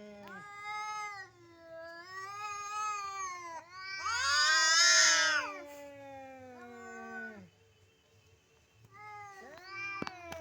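Two cats yowling at each other in a fight standoff: long, wavering, drawn-out calls that overlap, one voice lower and one higher. The calling is loudest about halfway through, breaks off in a short lull, then starts again, with a sharp click near the end.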